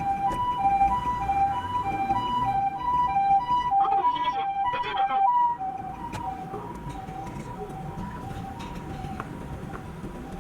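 Japanese ambulance siren sounding its two-tone hi-lo "pee-po" call, alternating quickly between a high and a lower tone, the recording being at double speed. It is loud at first, with a brief burst of other sound about four seconds in, then drops off and carries on more faintly. Road noise runs underneath.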